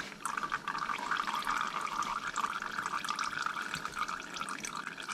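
Engine oil pouring in a steady stream from the lower screen port of a Sherco 300 SEF's engine into a plastic bucket. It starts just after the opening and flows evenly, with small splashes and drips over it.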